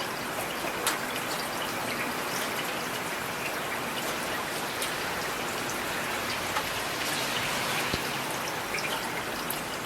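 Steady rain falling, an even hiss with the scattered ticks of individual drops hitting a surface.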